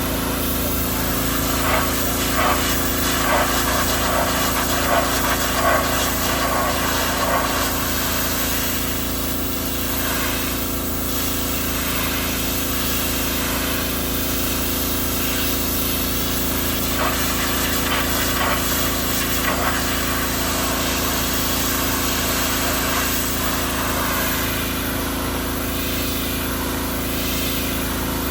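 Gas-engine pressure washer running steadily, with the hiss of its water spray rising and falling over the top.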